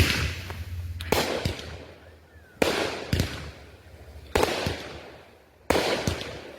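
Consumer aerial fireworks going off in a rapid string of about seven sharp bangs, each followed by a fading crackle.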